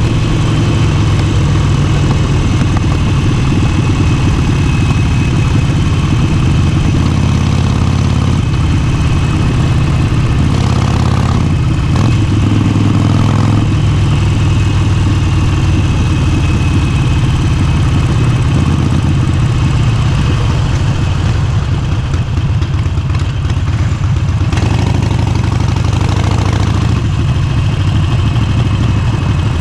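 Motorcycle engine running steadily, its note shifting a few times.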